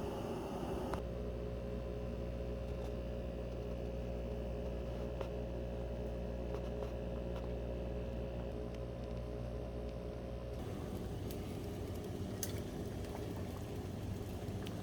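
Water boiling in a pot, a steady bubbling hiss with faint scattered ticks. A steady hum runs over it from about a second in and stops about ten seconds in.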